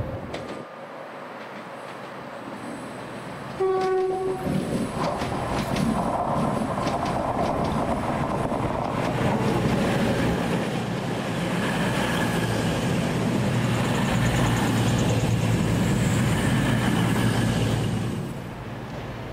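A train sounds a short single horn blast about four seconds in and then runs past loudly, its wheels clicking over the rail joints, before the noise drops away near the end.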